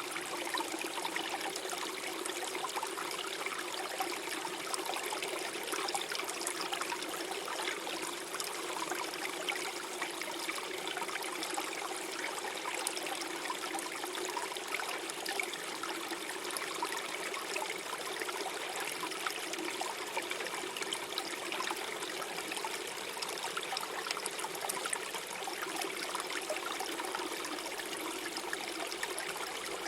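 Small forest stream flowing and gurgling steadily over stones, a constant babble of water.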